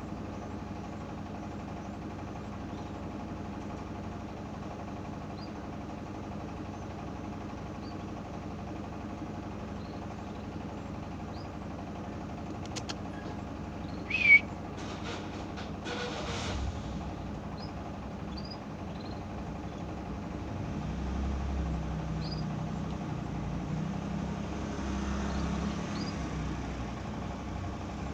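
Steady low machine hum, like an idling motor, under faint, short high chirps from canaries. About halfway through comes one louder chirp with a few sharp clicks, and a low rumble swells in over the last third.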